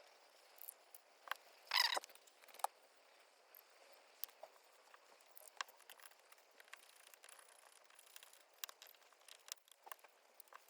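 Small metal carburettor parts being handled and fitted back together: scattered light clicks and ticks, with one louder rattling scrape about two seconds in.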